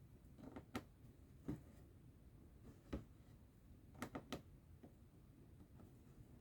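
Quiet cross-stitching: about six soft, sharp clicks and taps as the needle goes through the fabric and the thread is drawn, with two close together past the middle.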